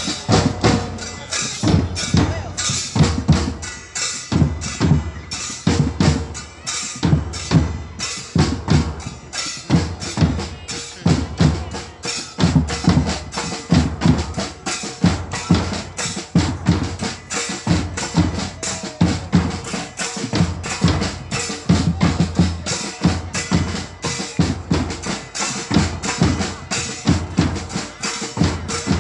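Drums playing a steady, driving beat, with bass drum and snare strikes.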